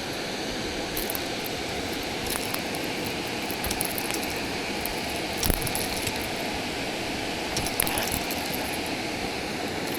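Steady rushing of water pouring over a low river dam, with a few scattered sharp clicks and taps, the loudest about halfway through.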